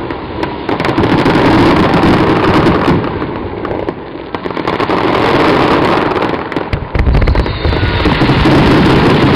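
Fireworks finale barrage: shells and ground mines bursting in quick succession over a dense crackle. There is a short lull in the middle, and from about seven seconds in the low booms grow heavier.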